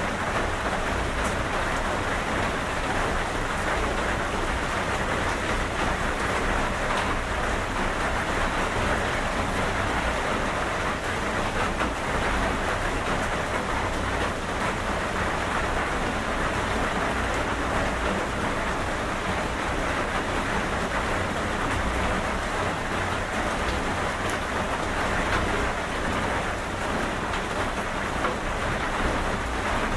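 Steady rain falling on a surface, an even hiss with a few scattered drop ticks.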